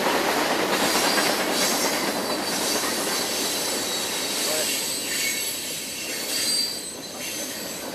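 Train cars passing close by: a steady rush of wheels on rail, with thin high-pitched wheel squeal over it. It eases somewhat near the end.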